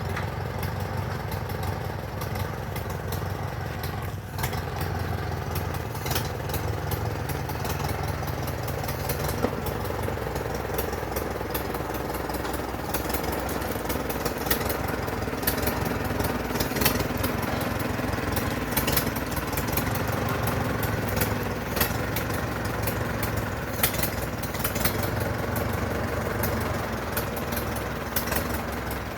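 Farmall H tractor's four-cylinder petrol/paraffin engine running steadily, with scattered sharp clicks over it.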